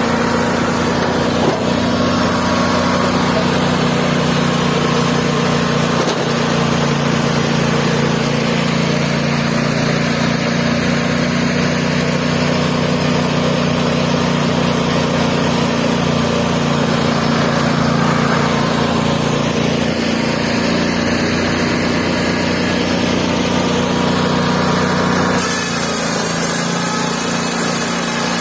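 Mobile band sawmill running steadily at a constant speed. About 25 seconds in, a brighter hiss comes in on top.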